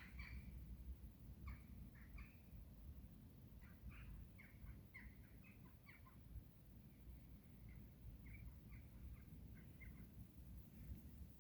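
Faint birdsong: short, quick chirping notes from small birds in scattered clusters, over a low steady rumble.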